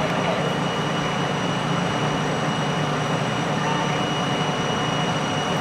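Steady drone of a large engine running, with a thin high-pitched whine held on top.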